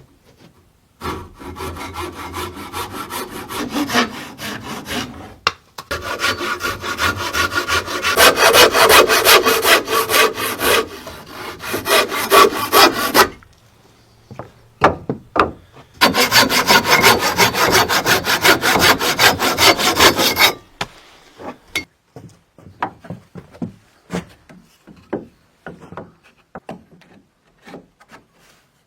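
Hand saw cutting through wood in three long bouts of quick back-and-forth strokes, with short pauses between them; scattered light knocks and clicks follow near the end.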